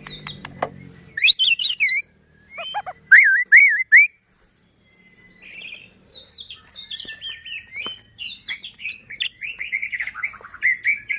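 White-rumped shama (murai batu) singing: sharp clicking crackles, then loud whistled phrases that swoop up and down. After a pause of about a second comes a fast run of varied notes.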